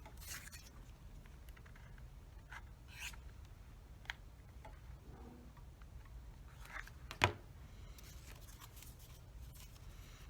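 Quiet handling of craft materials: wooden popsicle sticks and a hot glue gun being picked up, rubbed and set down, with soft rustles and a few small clicks and taps, the sharpest about seven seconds in.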